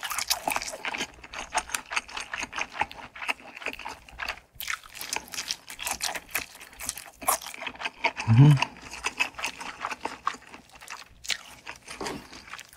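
Close-up chewing of fish cake: dense crunching and wet mouth clicks, with a short low hum about eight seconds in.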